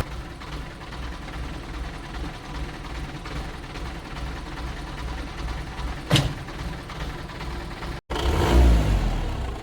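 Old car engine idling with a steady low rumble, a single sharp knock about six seconds in, then a short, louder burst of revving near the end.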